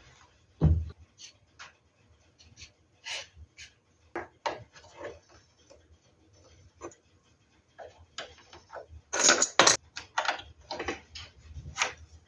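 Irregular wooden knocks, taps and short scrapes of hand work on classical guitar wood parts, with one heavier thump just under a second in and a quick cluster of sharp knocks a few seconds before the end.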